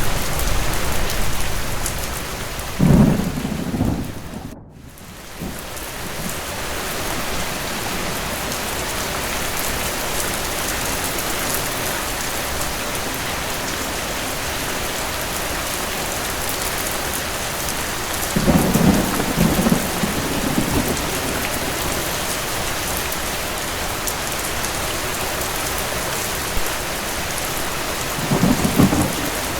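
Steady rain with rolls of distant thunder: a rumble about three seconds in, a longer one just past halfway, and another near the end. The sound briefly drops out almost to silence soon after the first rumble.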